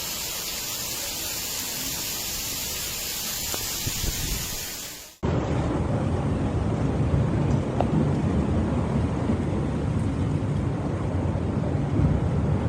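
A steady high hiss of heavy rain. After an abrupt cut about five seconds in, it gives way to a louder, deeper rushing rumble of floodwater with wind on the microphone.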